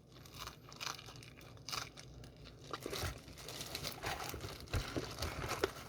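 Faint chewing and crunching of fried chicken close to the microphone, with light crinkling and scattered small clicks, getting busier about halfway through.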